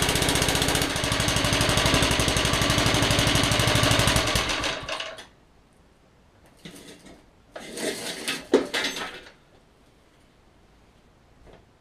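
Petrol engine of a Suffolk Punch 43S cylinder mower running steadily, then shut off about four seconds in and dying away; the cutting cylinder is seized, so the chain drive is not turning. Afterwards a few clunks and rattles, with one sharp knock among them.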